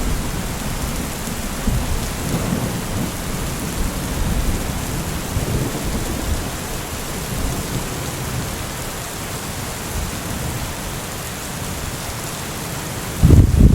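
Recorded rain ambience: a steady hiss of falling rain with low rumbling underneath, and a brief louder low rumble near the end.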